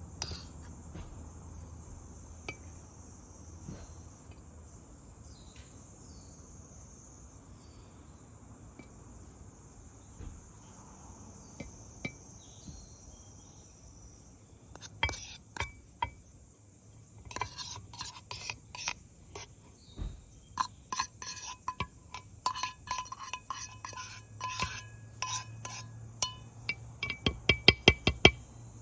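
Insects, crickets by their sound, chirping steadily. From about halfway, a scatter of light clinks and taps of camp tableware and utensils, with a quick run of louder clicks near the end.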